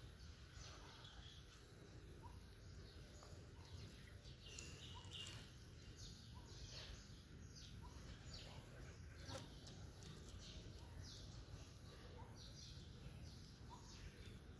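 Faint outdoor ambience: small birds chirping again and again in short notes, over a low background rumble.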